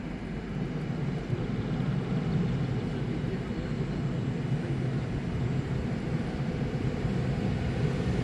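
A train rumbling through the station, its low rumble growing steadily louder as it approaches.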